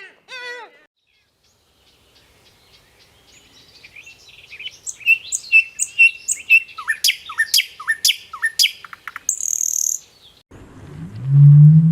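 A songbird singing a fast series of chirps and quick downward-sweeping notes. A loud, low call starts near the end.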